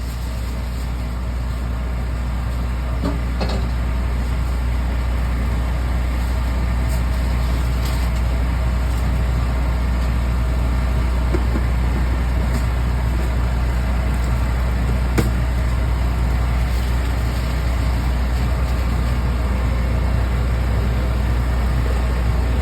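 Steady low mechanical drone, like a running motor or fan, with a few faint clicks and knocks over it.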